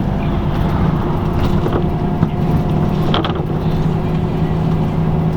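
A LiAZ-5250 city bus heard from inside the passenger cabin while driving: a steady engine drone under road noise, with interior rattles and a sharper clatter about three seconds in.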